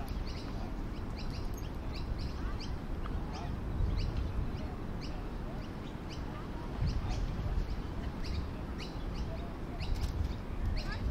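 Birds chirping: short, high chirps repeating about two or three times a second, over a steady low rumble.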